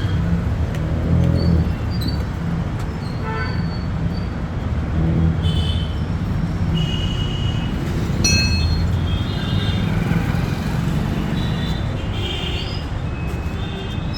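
Road traffic rumbling steadily, with several short high-pitched beeps scattered through it.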